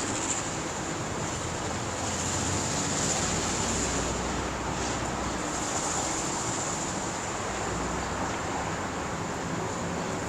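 Steady outdoor background noise, like road traffic and wind, with a constant high hiss and no distinct events.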